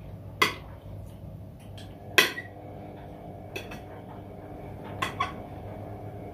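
Metal cutlery clinking against dishes while eating: five sharp clinks with a brief ring, the loudest about two seconds in and two in quick succession about five seconds in.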